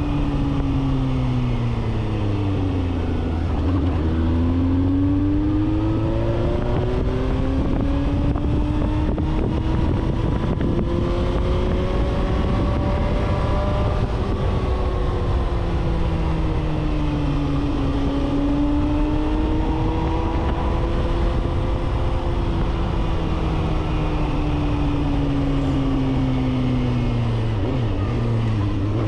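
Suzuki GSR750 inline-four running through a 4-into-1 full exhaust as the bike is ridden. The engine note rises and falls with the throttle, dropping and then climbing again about three seconds in and near the end, over steady wind and road noise.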